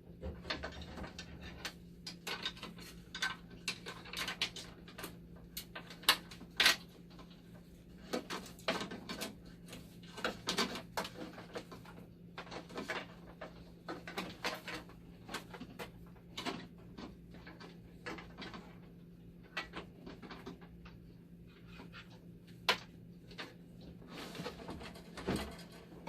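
Irregular small clicks, taps and rattles of metal and plastic parts and wiring being handled inside a dialysis machine as its power supply is refitted, a few sharper knocks among them, over a steady low hum.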